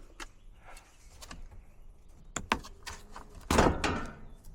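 Hand-handling noises at an air handler's coil compartment: a few light clicks and taps, then a louder scraping rustle lasting about half a second, three and a half seconds in.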